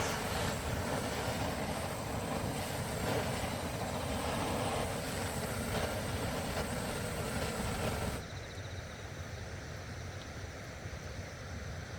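Rushing water, a steady loud roar of the kind of noisy stream the camp sits beside. About eight seconds in it cuts suddenly to a quieter, duller rush.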